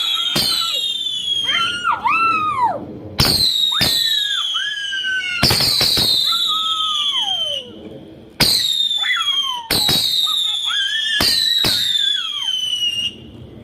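Multi-shot 'Golden Promise' consumer firework firing whistling shots, one every couple of seconds: each is a sharp bang followed by a high whistle that falls slowly in pitch. The last whistle stops about a second before the end.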